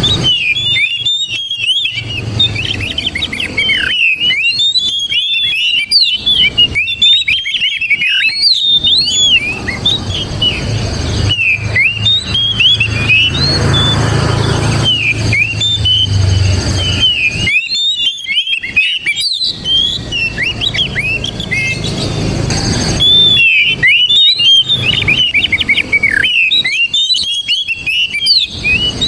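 Oriental magpie-robin (kacer) singing a loud, fast run of varied whistled notes in bursts with short pauses. A low rumble sits under the song for several seconds around the middle, when the notes thin out.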